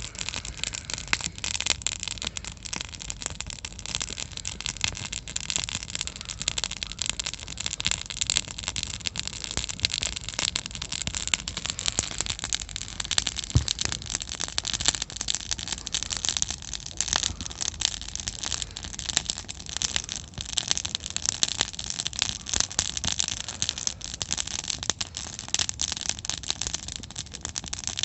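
Wood campfire crackling steadily, with a dense run of small sharp pops and snaps.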